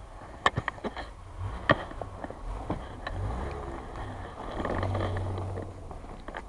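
An off-road SUV's engine running as it drives up a snowy track. Its low drone swells about five seconds in, and several sharp knocks come in the first two seconds.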